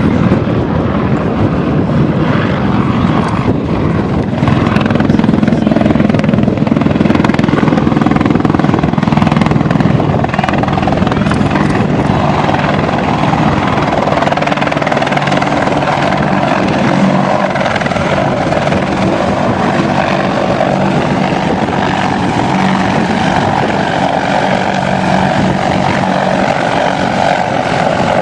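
AH-64 Apache attack helicopter in flight, its rotors and twin turboshaft engines making a loud, steady drone. From about twelve seconds in, a higher hum rises over the low rotor sound.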